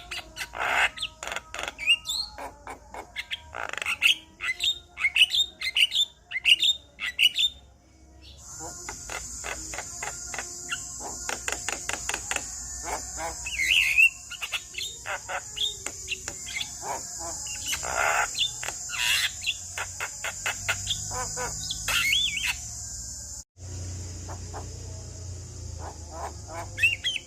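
Male Javan myna calling, a long string of loud, sharp whistles and chattering notes that sweep up and down in pitch, ending in a rapid run of short repeated notes. A steady high hiss sits behind the calls through the middle and stops abruptly.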